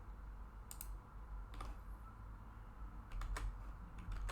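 A handful of scattered, sharp clicks from a computer keyboard and mouse as selections and shortcuts are made, over a faint steady low hum.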